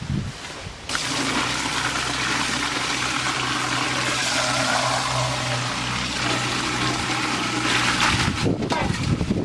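Water running steadily with a low hum, starting about a second in and cutting off shortly before the end.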